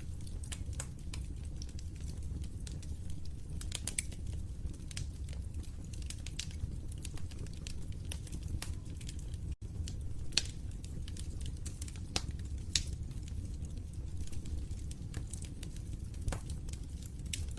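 Fire crackling: irregular sharp pops and snaps over a steady low rumble, with a split-second dropout about ten seconds in.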